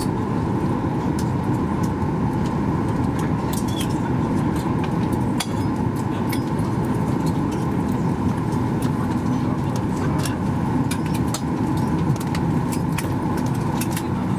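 Steady cabin rumble and hum of a Boeing 737 MAX 8-200 on the ground after landing, its engines still running, with scattered light clicks and rattles from the cabin.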